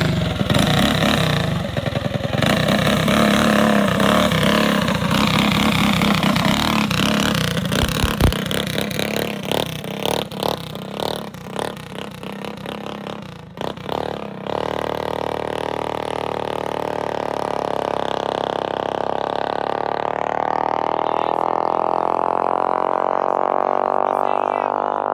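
Small minibike engine running and revving for about fourteen seconds, thinning out toward the end. Then an abrupt change to a steady droning tone with many overtones that slowly rises in pitch.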